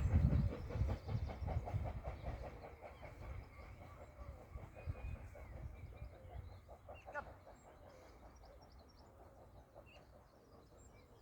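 Steam train hauled by BR Standard Class 4MT 4-6-0 No. 75014 moving away up the bank, its quick, even rhythmic beat fading steadily into the distance. Faint birdsong becomes audible as it dies away.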